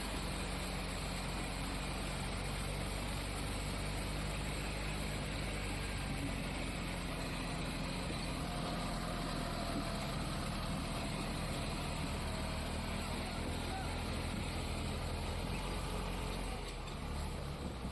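Hindustan 60 tractor's diesel engine running steadily under heavy load as it pulls up a slope, easing off slightly near the end.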